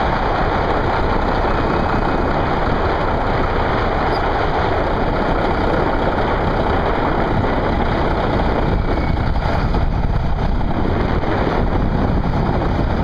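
Diesel engine of a heavy earthmoving machine running steadily and loud, with a constant low rumble.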